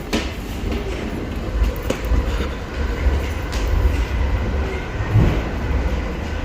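Train running on the rails: a steady low rumble with a light clatter of wheels.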